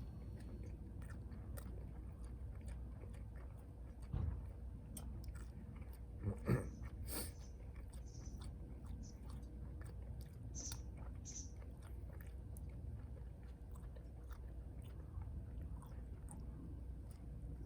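Close-up chewing and biting of food, a bacon-lettuce muffin, with small wet clicks throughout over a steady low rumble; a couple of louder knocks about 4 and 6.5 seconds in.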